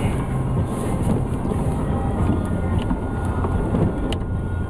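Car running along a snowy street, heard from inside the cabin: a steady low rumble of engine and tyres, with a sharp click about four seconds in.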